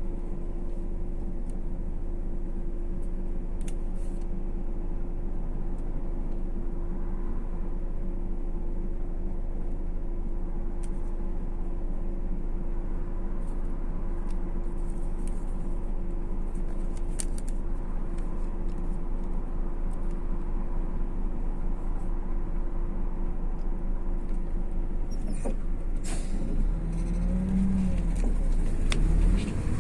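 Cabin noise of a MAZ-152 coach under way: a steady engine drone with a constant whine and road rumble. Near the end the engine note rises and gets louder, as when the bus pulls harder or changes gear.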